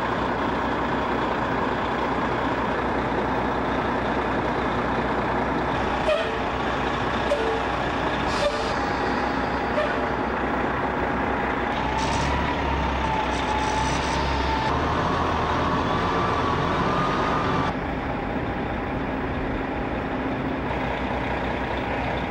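Steady heavy machinery and vehicle noise, with a faint wavering whine in the middle and a few sharp clicks or knocks a little before that.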